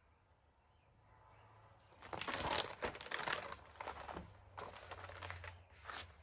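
Paper rustling and crinkling close to the microphone as the pages of a picture book are handled and turned, starting about two seconds in.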